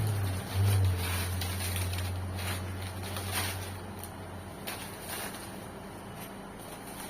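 A motor engine running with a steady low hum, briefly louder about a second in, then fading away about four seconds in, with scattered rustling and crackles.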